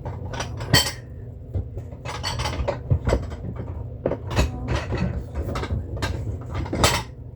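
Kitchenware being handled: a run of clinks and knocks of dishes and utensils, the loudest about a second in, about three seconds in and near the end, over a steady low hum.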